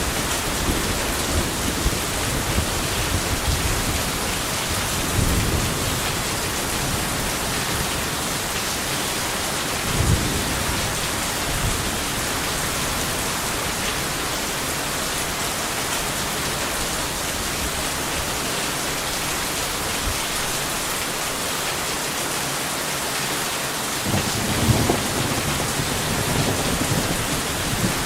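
Steady heavy rain with rolls of low thunder rumbling now and then, most strongly at the start, about ten seconds in, and again near the end.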